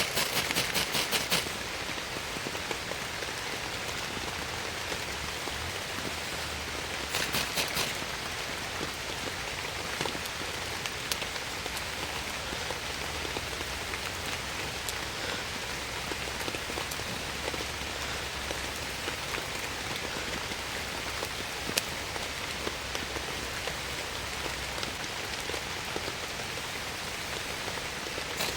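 Steady rain falling, with scattered sharper drop hits. Twice, near the start and about seven seconds in, there is a brief spell of rapid ticking.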